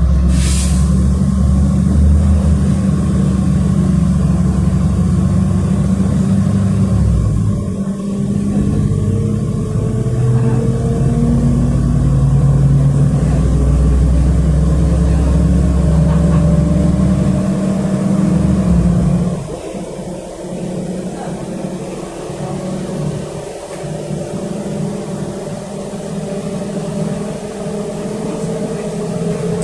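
City bus engine and drivetrain heard from inside the passenger cabin while under way: the engine pulls loudly, changing pitch in steps, then about two-thirds of the way through drops to a quieter drive with a slowly rising whine.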